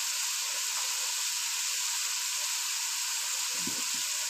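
Tomato-onion masala frying in hot ghee in a pan, sizzling with a steady, even hiss.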